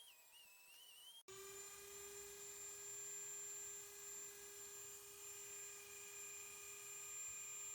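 A small electric motor, likely a power tool, starts about a second in after a brief wavering tone and then runs at a steady speed with a high, even whine.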